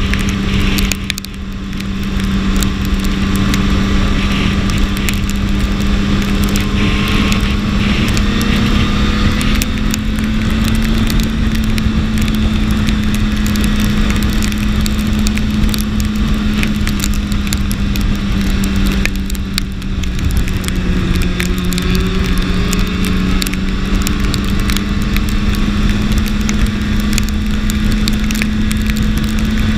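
BMW S1000RR sportbike's inline-four engine running at a steady cruising speed under heavy wind rush. It eases off briefly about a second in and again around twenty seconds in, its pitch dipping and then climbing back.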